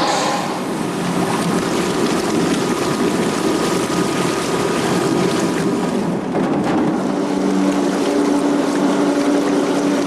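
Whirlpool batch food washer running: pressurized water jets churning the water in the tank over the steady hum of its pump, the hum standing out more from about six seconds in.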